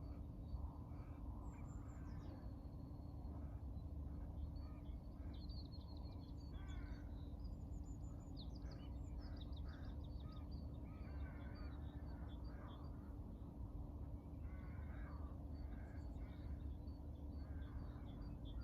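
Birdsong: several birds chirping and calling, with short high whistles and trills, over a steady low background rumble.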